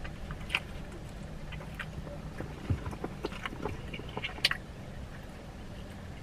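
A person chewing a big mouthful of steak burrito close to the microphone: irregular wet clicks and smacks of the mouth, the sharpest about four and a half seconds in, over a faint steady low hum.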